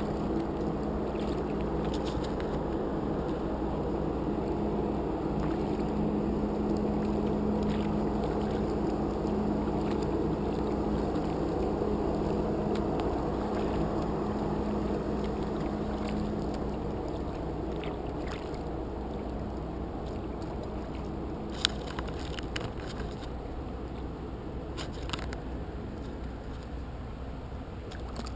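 Steady low hum of a large ferry's machinery with a constant tone, over lapping water. The tone fades out about two-thirds of the way through and the hum slowly drops in level. A few sharp clicks and splashes come near the end.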